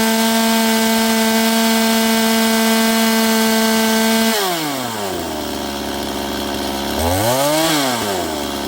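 Two-stroke chainsaw held at full throttle without cutting, run free to check whether the chain spins freely on the bar. It drops to idle about four seconds in, then gets one quick rev up and back down near the end.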